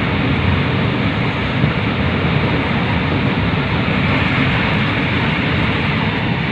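High-speed train heard from inside the carriage while running along an elevated viaduct: a steady low rumble with a hiss above it.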